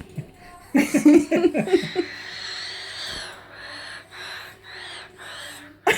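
A pet bird making an odd noise: a quick run of low, voice-like calls about a second in, then a long hissy call and several short repeated ones.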